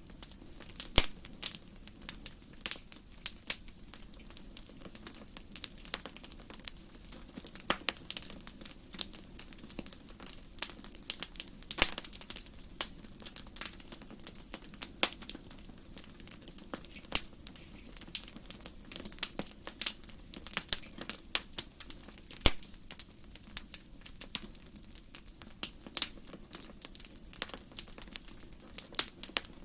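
Wood fire burning in a fireplace, crackling with irregular sharp pops, several a second, over a steady low rush of the flames.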